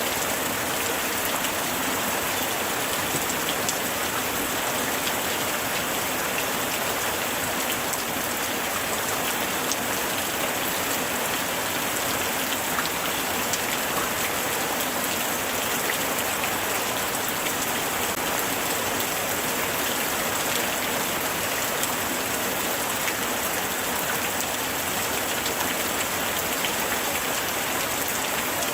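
Light rain falling steadily: a dense, even hiss of rain with many small drops ticking on surfaces.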